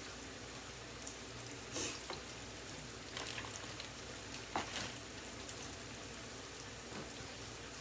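Mushrooms sauteing in a frying pan: a steady sizzle with a few faint crackles.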